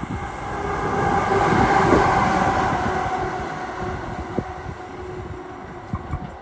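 Train passing on the line, its rumble and running noise with a steady whine swelling to the loudest point about two seconds in, then fading away.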